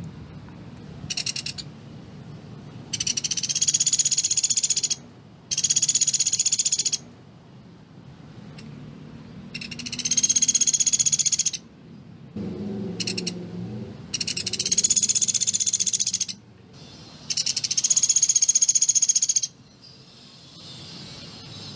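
Pelatuk beras woodpecker giving rapid, high-pitched rattling trills, mostly about two seconds each, with two short bursts among them and brief pauses between. This is the dense 'machine-gun' trill kept as a tutor song for other cage birds. A low muffled sound comes briefly near the middle.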